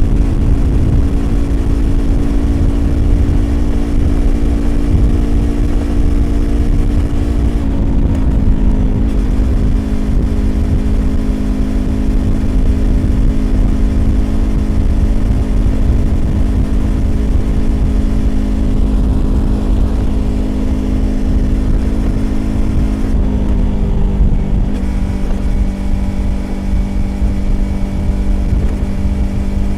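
Yamaha YZF-R25's parallel-twin engine through a Prunus aftermarket exhaust, running under steady throttle at expressway speed. Its pitch steps down twice, about eight seconds in and again near the 24-second mark, as it changes up a gear. Wind rumble on the microphone sits underneath.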